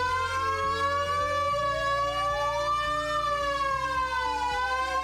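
Warning sirens sounding the alert for a volcano evacuation drill: several overlapping wailing tones slowly rising and falling in pitch.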